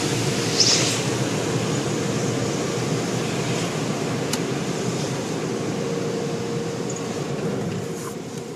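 Automatic car wash machinery running, a steady rushing noise with a faint hum underneath, slowly fading near the end.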